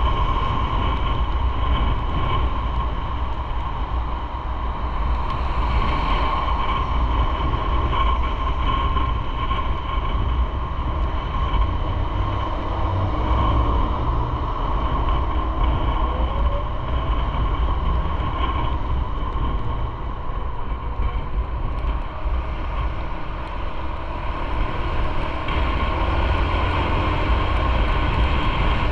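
Motorcycle under way at a steady pace: a continuous engine drone and road noise, with no marked revving or stops.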